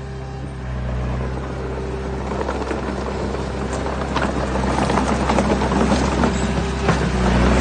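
Heavy-equipment diesel engine running steadily, with a rising clatter of stones knocking and tumbling that starts a couple of seconds in and grows louder toward the end.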